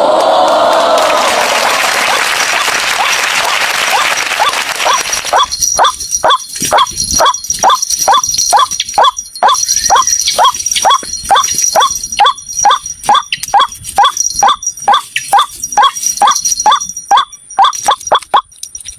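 White-breasted waterhen (ruak-ruak) calls, as used as a trapping lure: short call notes repeated over and over at about two to three a second. A rough, noisy stretch covers the first five seconds.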